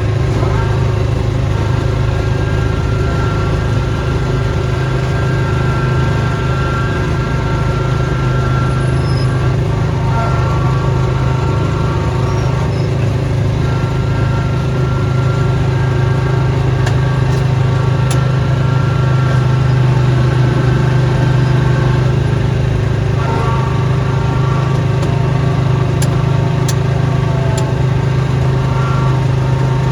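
Snowblower's small gasoline engine running steadily at a constant speed, with a faint higher whine over it.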